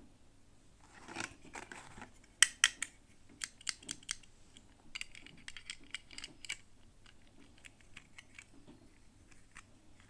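Hands opening small toy packaging: a brief rustle, then a run of sharp clicks and snips, loudest about two and a half seconds in, tapering to light ticks.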